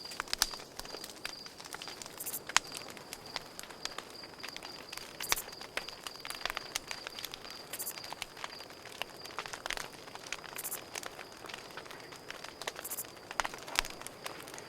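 Campfire crackling with irregular sharp pops, over a steady high-pitched pulsing chirp of crickets.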